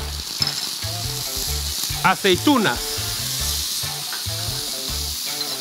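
Capers in their brine and green olives sizzling in hot oil in a nonstick frying pan: a steady hiss.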